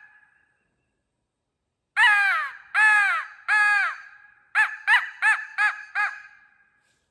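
Primos crow call blown by mouth, imitating a crow. About two seconds in come three long, drawn-out caws, then a quick run of five short caws.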